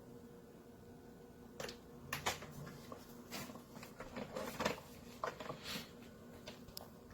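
A scattered series of light knocks and clicks, bunched in the middle seconds, over a faint steady hum.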